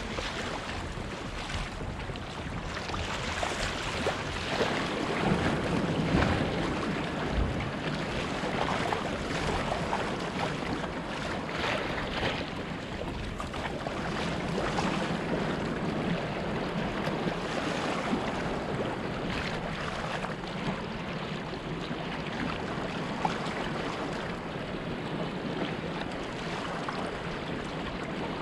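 Wind on the microphone and sea water washing and splashing around a kayak on the ocean, an uneven rushing noise that swells a few seconds in.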